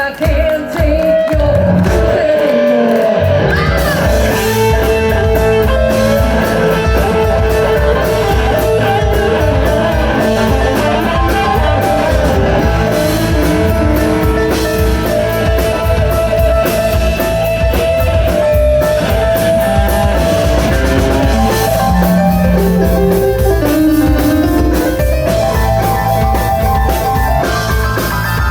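A live rock band playing with electric guitar, bass and drum kit. The low end drops out briefly a couple of seconds in, then the full band comes back in with a steady driving beat.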